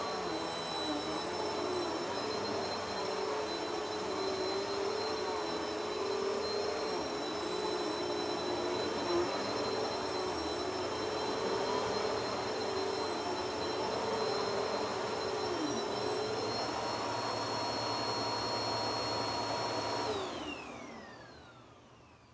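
Kirby vacuum cleaner running steadily with a high whine, then switched off about 20 seconds in, its motor winding down with a falling whine.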